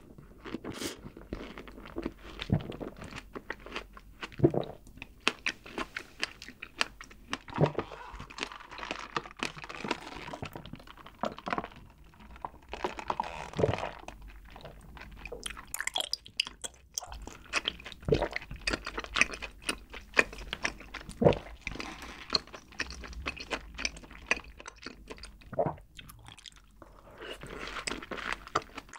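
Close-miked eating sounds: wet chewing and mouth smacking with frequent small irregular clicks, as whipped cream with strawberry and chewy tapioca pearls from bubble milk tea are chewed.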